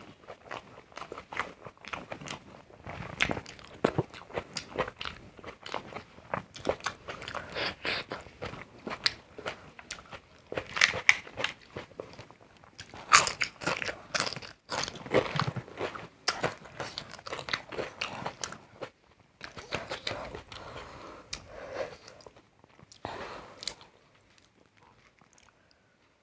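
A person eating close to the microphone: biting and chewing with frequent, irregular crisp crunches, fading off over the last couple of seconds.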